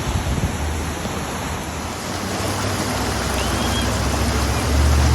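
Steady rushing of floodwater, with a vehicle's engine coming closer and growing louder near the end.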